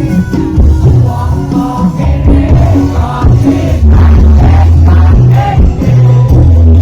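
Loud live campursari band music through a concert sound system: heavy sustained bass notes with a sung vocal line over them.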